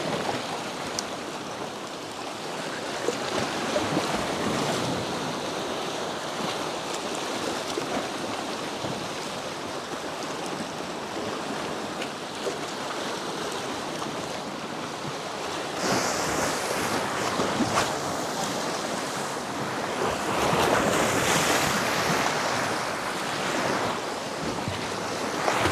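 Sea waves washing on the shore, with wind buffeting the microphone. The surf swells louder about sixteen seconds in and again around twenty-one seconds.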